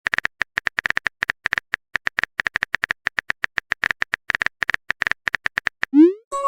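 Rapid, irregular phone keyboard typing clicks, a text message being typed out, followed near the end by a quick rising swoop like a message-sent sound effect.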